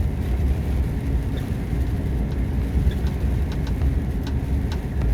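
Truck driving along: a steady low rumble of engine and road noise, with a few faint clicks in the second half.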